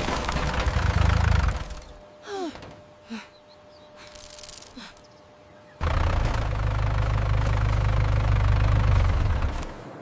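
A heavy engine running with a loud low rumble, which drops away about two seconds in. A few short falling squeaks sound in the quieter stretch, and the rumble starts again abruptly near six seconds before fading near the end.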